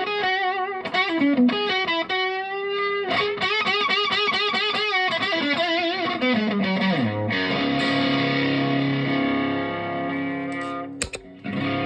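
Overdriven electric guitar, a P90 Les Paul through a Behringer Centaur overdrive pedal and Supro Blues King amp, playing single-note lead lines with string bends and vibrato. About seven seconds in a chord is struck and left to ring, and near the end a short break is followed by another chord.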